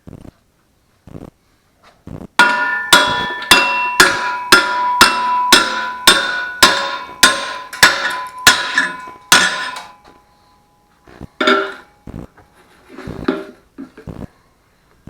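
Hammer blows on a scored piece of steel plate, bending and tearing it along the cut: about fifteen ringing metallic strikes at roughly two a second, then a few lighter knocks.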